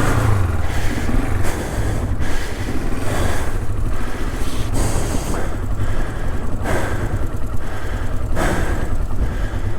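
A person panting hard, out of breath, with loud breaths about every second, over the steady low running of the Honda CL450's parallel-twin engine at idle.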